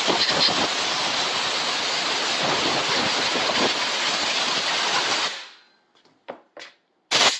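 Compressed-air blow gun blasting dust out of refrigerator coils: a loud steady hiss that cuts off about five seconds in, then a few short blasts as the trigger is tapped near the end.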